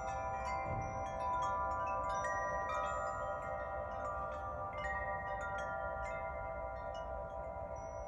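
Metal tube wind chimes struck by the wind, many notes ringing and overlapping irregularly, over a low rumble of wind.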